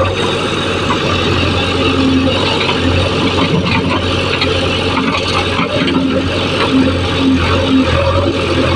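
Diesel engine of a JCB backhoe loader running steadily at working speed, with a light mechanical clatter over it.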